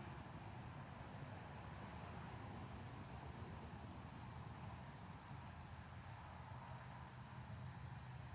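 Steady, high-pitched insect chorus, a continuous trill like crickets, with a faint low rumble underneath.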